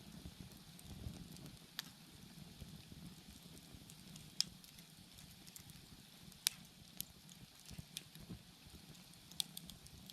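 Wood bonfire crackling: sharp pops every second or so, a couple of them louder, over a low steady rumble of the flames.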